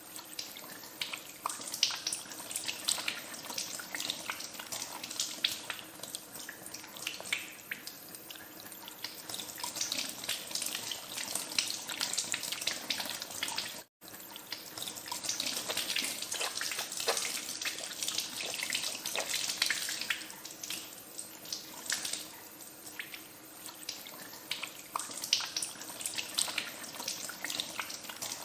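Tap water running into a sink and splashing over hands being washed, with many small splashes and drips. The sound cuts out for an instant about halfway through.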